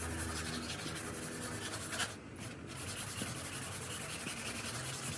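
Steady abrasive rubbing, as of hand sanding, with a short pause about two seconds in. A faint low hum sits under it for the first two seconds.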